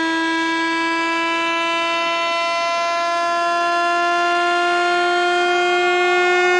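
Synthetic speaker-cleaning tone played to shake water out of a phone speaker: a steady, buzzy electronic tone rich in overtones, slowly rising in pitch.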